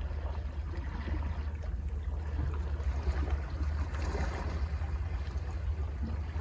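Sea waves washing and splashing, over a steady low rumble, with a wash that swells about four seconds in.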